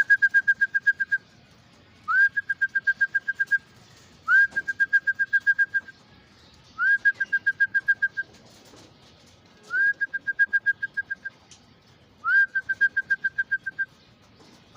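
A trilling whistle blown six times in short bursts: each starts with a quick upward swoop, then a rapid pulsing trill on one high pitch. It is a fancier's call for racing pigeons to come into the loft.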